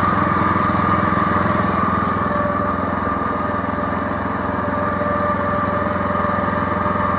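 Small engine running steadily at an even speed, with a steady high whine riding over it, on the rig used for spraying the field.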